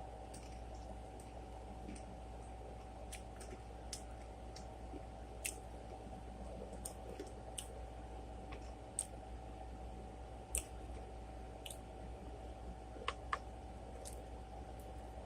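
A person eating close to the microphone: scattered, irregular small wet clicks and smacks of chewing, over a steady faint hum.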